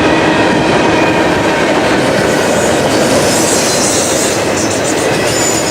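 Freight train cars rolling past close by, a steady loud rumble of wheels on rail with some clickety-clack. A thin, high wheel squeal comes in about halfway through.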